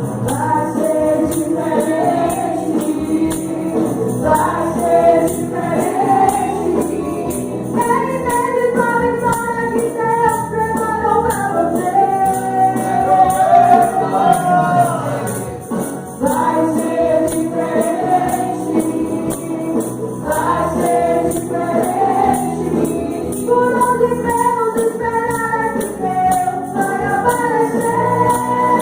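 Gospel worship singing by a group of voices, with a tambourine shaken in a steady beat throughout.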